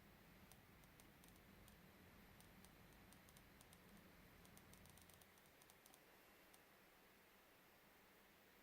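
Near silence with faint, irregular small clicks for the first six or so seconds, over a faint low hum that fades about five seconds in.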